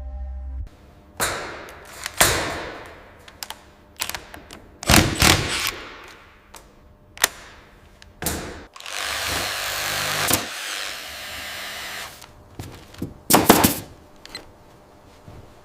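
Heavy construction work sounds: a string of sharp knocks and thuds, several trailing off in a fading hiss. About nine seconds in there is a steady rushing noise lasting about two seconds, and near the end a loud pair of strikes.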